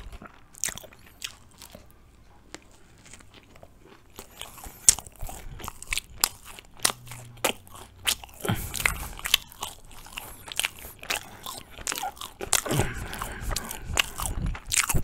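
Close-miked biting and chewing of crusty Turkish Ramazan bread: soft crunches and wet mouth clicks, sparse at first and coming thick and fast from about four seconds in.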